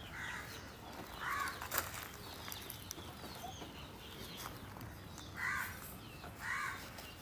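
Birds calling softly: four short clucking calls in two pairs about a second apart, the second pair near the end, with faint high chirps behind them.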